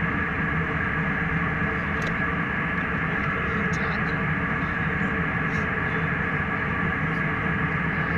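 Steady cabin drone of a jet airliner in flight: engine and airflow noise with a constant hum, unchanging throughout.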